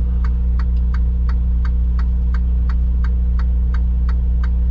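Turn-signal or hazard flasher ticking evenly, about three clicks a second, inside a semi-truck cab over the steady low hum of its idling diesel engine.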